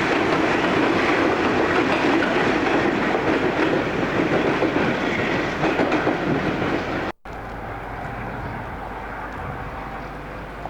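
A train running on rails, a loud steady noise that cuts off suddenly about seven seconds in, followed by a quieter steady background sound.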